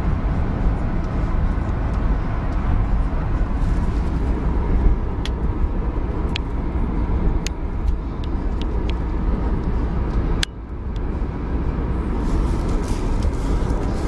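Car driving, its engine and road noise making a steady low rumble, with a few sharp clicks and a brief drop in level about ten and a half seconds in.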